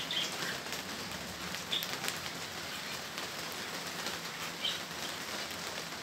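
A few short, high chirps from small birds in an aviary, spaced a second or more apart, over a steady hiss.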